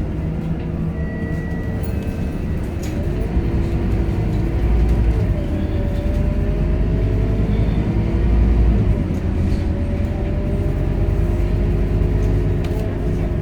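Scania K230UB bus's five-cylinder diesel engine and drivetrain heard from on board while under way, a heavy low rumble with a whine that rises and falls several times as the bus accelerates and changes gear.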